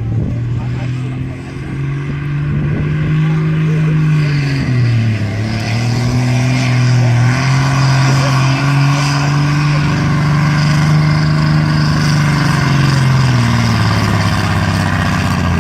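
Tractor engine working hard under load in a tractor pull, its pitch rising, dropping about five seconds in, climbing again and falling away near the end.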